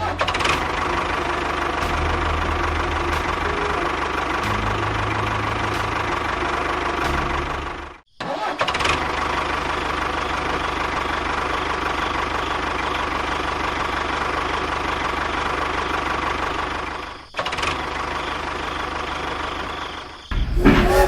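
A motor running steadily with a constant whine, cut off abruptly about 8 seconds in and dipping again about 17 seconds in before carrying on.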